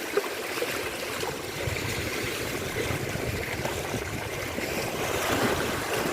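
Sea water washing and splashing against the shore in a continuous, churning rush.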